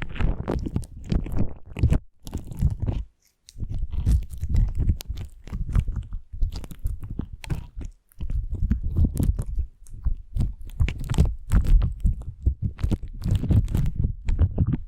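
Slime being squished and pressed by hand, a dense run of small popping clicks over soft low squelches, with two brief pauses.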